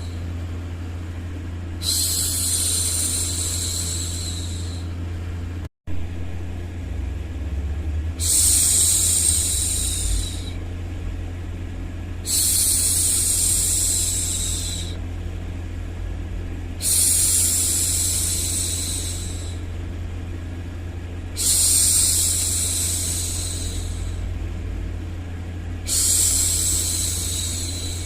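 A woman's voice shushing, a long 'shhh' of about two and a half seconds repeated six times at intervals of roughly four and a half seconds, over a steady low white-noise bed. The sound cuts out for an instant about six seconds in.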